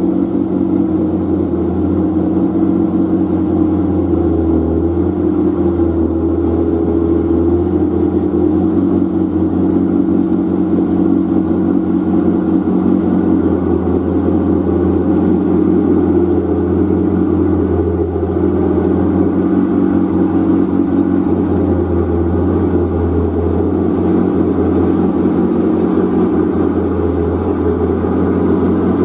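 Old truck's engine running steadily, a deep even drone with no let-up.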